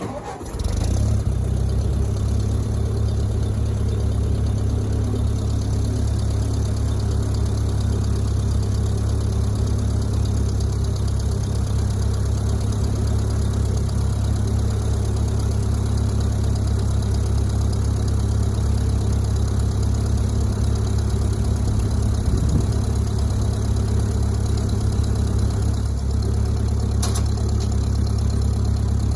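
1956 Ford 640 tractor's four-cylinder gasoline engine running steadily after a jump-start from a nearly dead battery. It comes in loud about half a second in and holds a low, even note.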